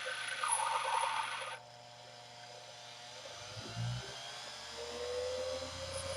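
A lathe tool bit being ground on a grinder. The grinding noise lasts about a second and a half, then stops abruptly. A faint motor hum and a soft thump remain.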